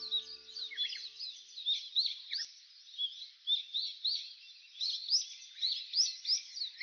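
Songbirds chirping and twittering in quick, short whistled calls, several overlapping. A tinkling music track fades out in the first second.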